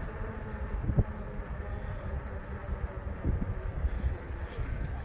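Wind rumbling on the microphone and the rolling rattle of a bicycle being ridden, with a sharp knock about a second in and a few softer ones later.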